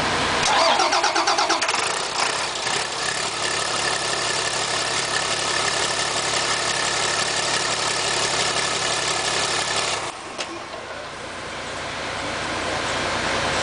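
Turbocharged bus engine with a newly fitted cylinder head, cranked by the starter and catching within about two seconds, then running evenly with a steady turbo whine. About ten seconds in it is shut off, and the turbo spins down. It is run only briefly because no coolant is connected.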